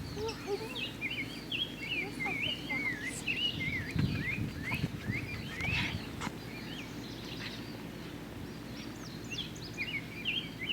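Small birds chirping and twittering in quick, short, up-and-down notes, over a steady low background rumble with a few brief low thumps.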